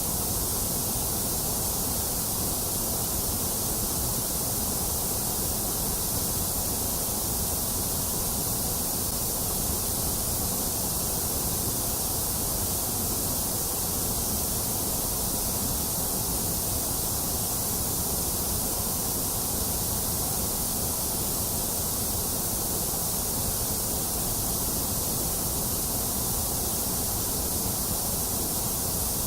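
Steady electronic white noise: an even, unchanging hiss, brightest at the top and fuller in the lows, with the middle range dipped.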